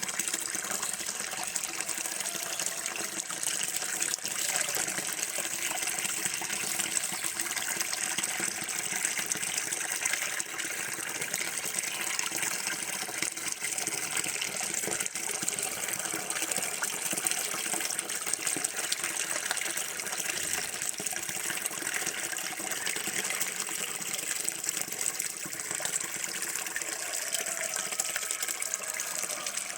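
Running water pouring steadily without a break, like a tap left running, played as a continuous sound to help with urinating.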